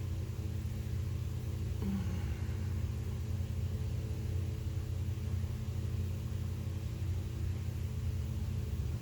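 Steady low hum and rumble made up of several constant low tones, with a brief faint sound about two seconds in.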